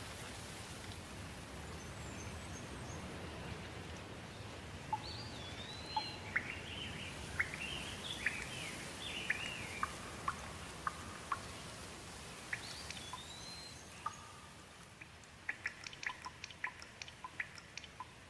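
Steady rain with birds singing over it: a run of whistled notes that slide up and down from about five to eleven seconds in, a short repeat near thirteen seconds, then a quick series of short, sharp notes near the end.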